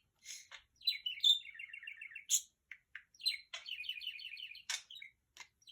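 Budgerigar warbling: fast runs of evenly repeated chirping notes, broken by sharp single chirps and clicks.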